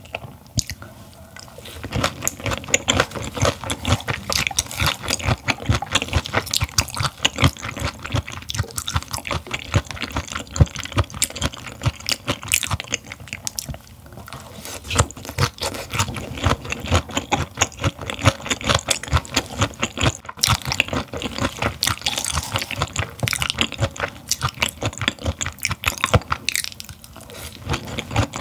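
Close-miked chewing of raw gizzard shad sashimi: a dense run of quick clicks and smacks, with a few brief lulls as the next bite goes in.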